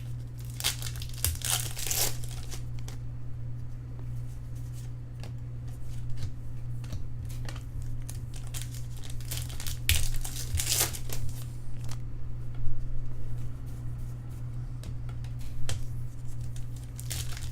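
Trading card pack wrappers being torn open and crinkled, with cards handled, in irregular short bursts.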